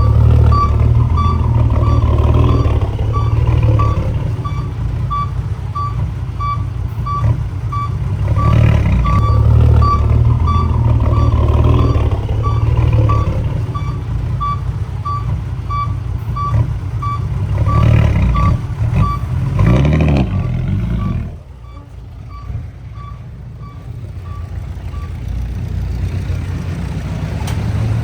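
Heavy equipment's diesel engine running with its reverse alarm beeping about twice a second; the engine drops off sharply about three-quarters of the way through, and the beeping stops soon after.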